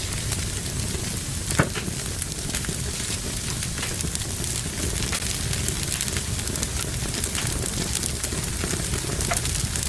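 Fire burning in a fireplace, hissing steadily with many small crackles and one loud pop about one and a half seconds in.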